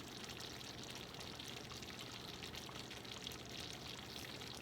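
Faint, steady sizzling crackle of food cooking in a pan, a hiss of many fine ticks that doesn't change.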